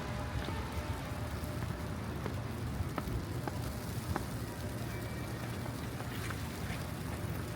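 City street ambience in a snowfall: a steady low rumble of traffic under a soft hiss, with light footsteps on wet, snowy pavement at a walking pace.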